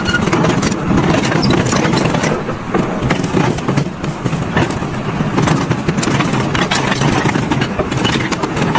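Engine of a vehicle or machine running steadily, with frequent rattling and knocking over it.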